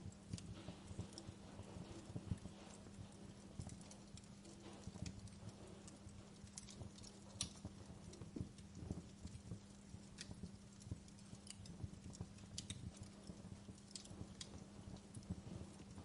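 Fireplace crackling faintly, with sharp pops at irregular moments over a low steady hum.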